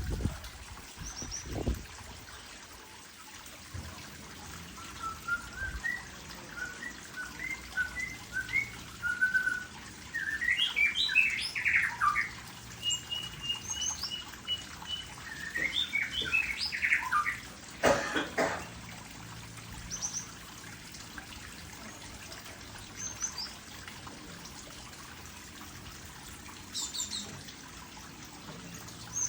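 Aviary songbirds singing and chirping: scattered high chirps and short twittering phrases, busiest in the middle, over a faint steady trickle of water.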